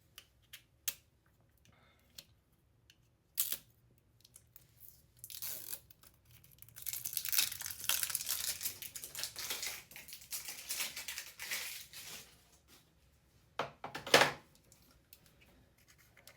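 Plastic packaging being handled and torn open: a few light clicks, then several seconds of dense crinkling and tearing, and a sharp rustle near the end.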